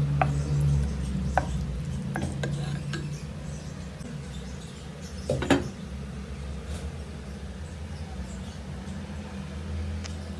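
A cooking utensil clinking against cookware in a few short, separate knocks, the loudest about five and a half seconds in, over a steady low hum.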